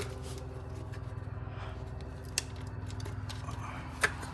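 Two sharp plastic clicks, about a second and a half apart, as a valve's connector on the intake manifold is unclipped and pulled off, over a steady low hum.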